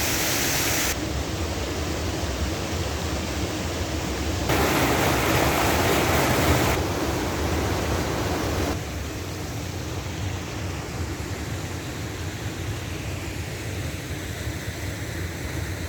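Water pouring from the many spouts of a long public fountain into its basin: a steady splashing rush. Its loudness changes abruptly a few times, and it drops lower and duller about nine seconds in.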